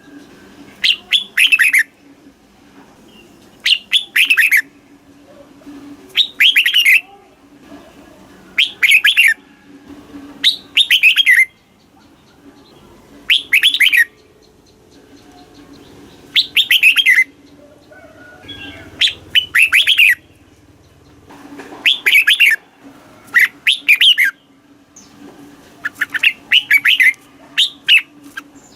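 Red-whiskered bulbul singing short, loud phrases of a few quick whistled notes, one phrase about every two to three seconds, over a faint steady low hum.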